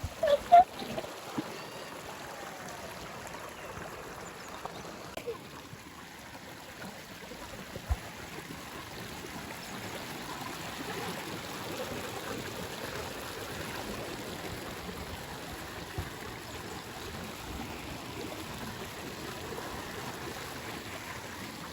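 Steady rush of water from a small waterfall and the stream it feeds, falling and running over rocks.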